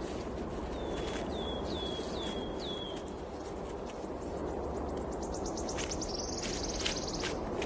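Forest ambience with small birds calling: a short down-slurred high note repeated about five times, then a fast run of ticking notes that turns into a buzzy trill near the end, over a steady low background hiss and a few faint clicks.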